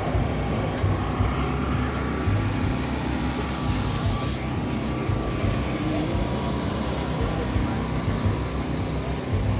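A car engine running steadily at idle, a continuous low rumble, with people talking in the background.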